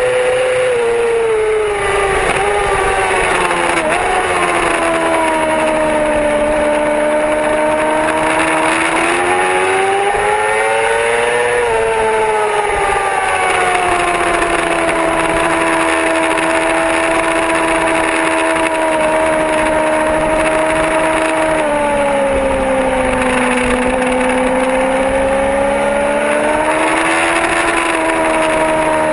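Yamaha R6 sport bike's inline-four engine at speed. Its pitch falls as it slows in the first few seconds, climbs again about ten seconds in, eases down, dips, then rises once more near the end, over a steady rush of noise.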